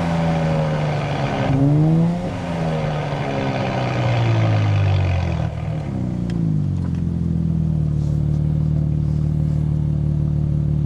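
Nissan Z Nismo's twin-turbo V6 through a Nismo Track exhaust under way. The engine note rises briefly about two seconds in, falls away over the next few seconds as the driver eases off, then settles into a steady drone.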